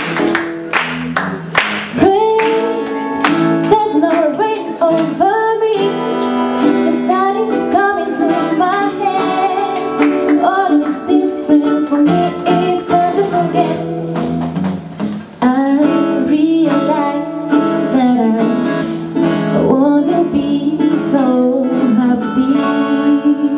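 A song sung to acoustic guitar accompaniment. The guitar strums alone at first, and the voice comes in about two seconds in.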